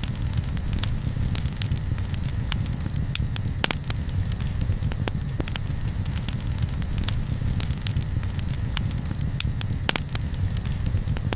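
Campfire crackling, with irregular sharp snaps and pops over a steady low rumble. A faint high chirp repeats throughout.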